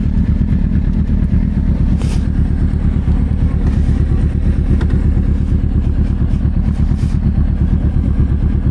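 Motorcycle engine running steadily at low revs, a dense low pulsing with no change in pace.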